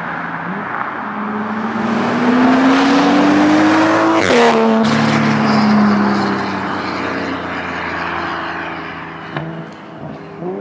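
2020 Toyota Supra's turbocharged B58 inline-six with a straight-piped exhaust accelerating hard, revs climbing steadily, then an upshift about four seconds in drops the revs before the engine pulls on and eases off. A couple of brief pops near the end.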